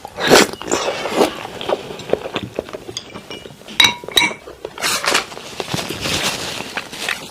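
Utensils clinking and tapping against a dish while eating salmon, with two ringing clinks about four seconds in.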